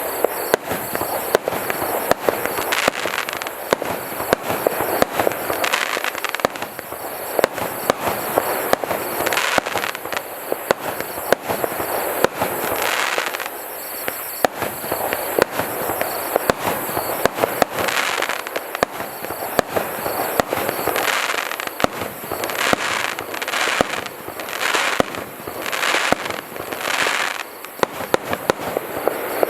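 POSEIDON firework going off without a break: a rapid string of sharp bangs and pops, with hissing, crackling swells rising and falling between them every second or two.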